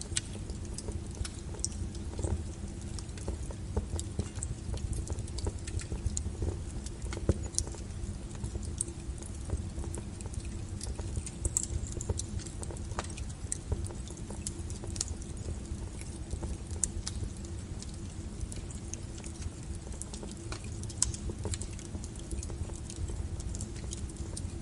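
Wood fire burning with a low steady rumble and irregular sharp crackles and pops of the firewood.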